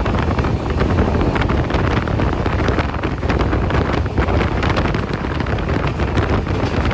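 Wind buffeting the microphone over the rumble and rattling of a moving passenger train, the Janshatabdi Express, running along the line.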